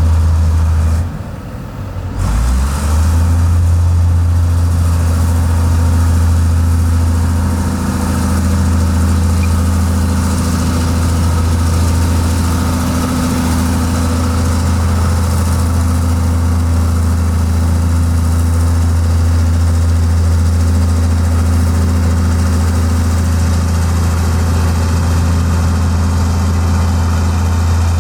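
Heavy construction machine's diesel engine running steadily with a deep drone. The engine sound dips briefly about a second in, then picks up again.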